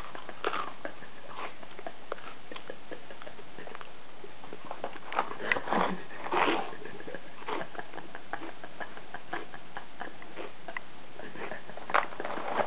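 A person chewing Froot Loops cereal close to the microphone: irregular crackly crunches, with a few louder ones about halfway through and again near the end.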